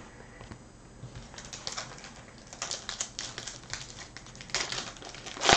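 Trading cards and a pack being handled: a run of short, irregular clicks and scrapes that starts about a second in, with a louder scrape right at the end.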